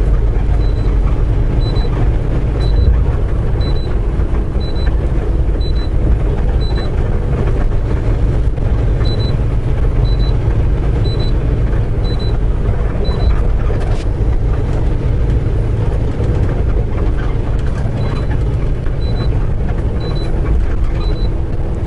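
Semi-truck cab at highway speed: steady engine and road rumble, with a faint high beep repeating about once a second in several runs.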